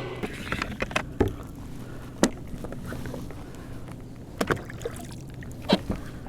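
Scattered sharp knocks and clicks on a kayak as a small redfish and gear are handled, over a low steady hum.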